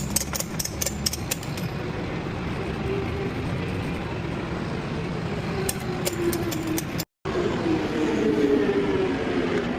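Tow truck engine running steadily, its pitch sagging and then rising again, with quick runs of sharp metallic clicks near the start and again about six seconds in. The sound cuts out completely for a moment about seven seconds in.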